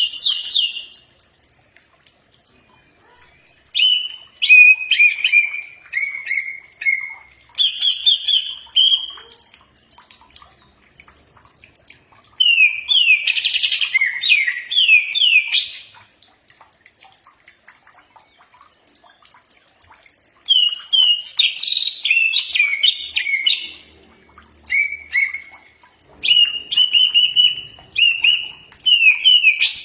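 Cucak ijo (green leafbird) singing in loud bouts of quick, slurred whistled notes, mostly falling in pitch, with pauses of a few seconds between the phrases.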